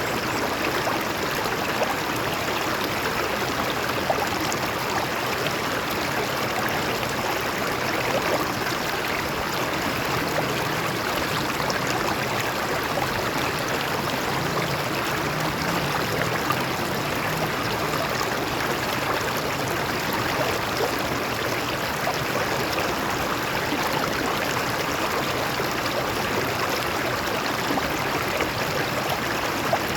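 Stream water flowing over rocks in a steady, unbroken rush and gurgle.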